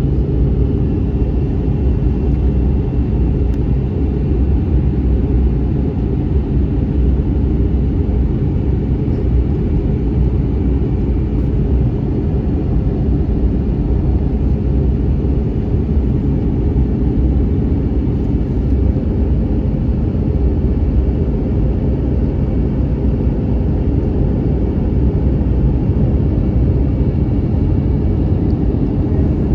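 Steady cabin noise inside an Airbus A321neoLR in flight: a constant low rumble of engines and airflow with a faint steady hum.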